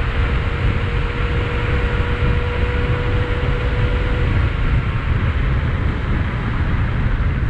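Wind rushing and buffeting over a helmet-mounted microphone on a moving electric bike, with a faint steady high tone for about the first four seconds.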